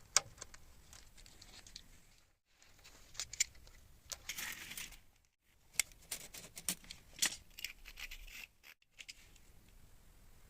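Hand-tool work: scattered sharp clicks and short scraping sounds, with a longer scrape about four seconds in and brief gaps of silence between passages.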